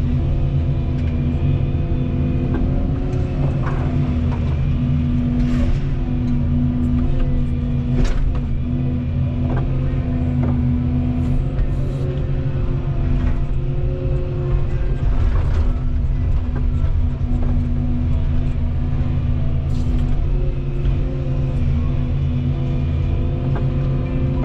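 Volvo 235EL excavator's diesel engine running steadily under working load, its pitch dipping and rising slightly, with a few short sharp knocks several seconds apart.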